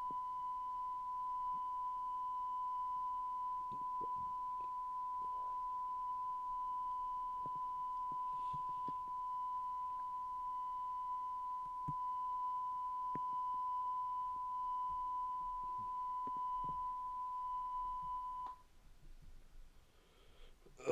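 Steady single high-pitched tone played back from a VHS tape. It holds unchanged with a few faint ticks under it, then cuts off abruptly about eighteen seconds in, leaving only faint tape hiss.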